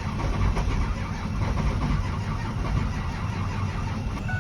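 Starter cranking a 2005 Ford F-250's 6.0L Power Stroke diesel, which spits and sputters without catching: low FICM voltage from weak batteries keeps it from firing. A faint steady beep-like tone comes in near the end.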